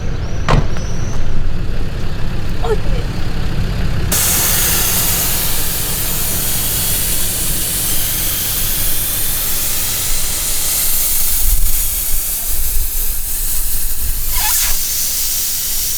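4x4 vehicle driving, a low rumble with a few knocks, overlaid from about four seconds in by a sudden, steady loud hiss of wind and road noise.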